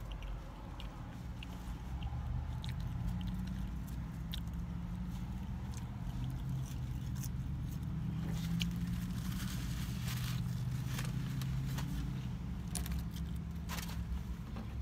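Someone chewing French fries while handling a paper food wrapper, giving scattered crackles and clicks, over a steady low rumble.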